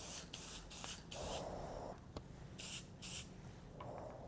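Aerosol can of Krylon gloss white spray paint, sprayed in about six short hissing bursts with brief pauses between, laying down a light coat.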